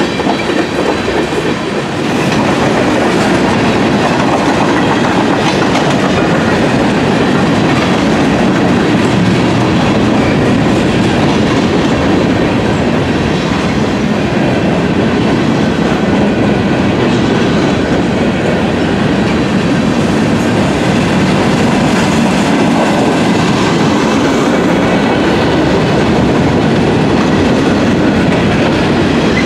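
Freight train cars rolling past on the track: a loud, steady rumble of steel wheels on rail.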